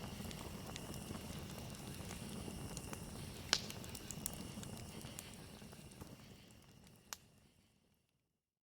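Campfire crackling and popping over a low rumble of burning wood, with the loudest pop about three and a half seconds in, and a steady high cricket trill behind it. Everything fades out over the last few seconds to silence.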